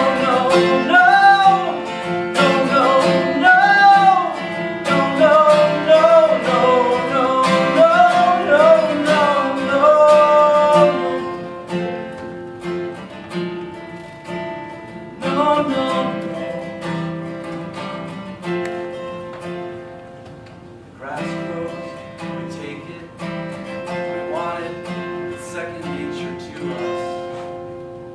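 Acoustic guitar strumming chords under a sung melody for about the first ten seconds, then the guitar carries on alone, quieter, to the song's close.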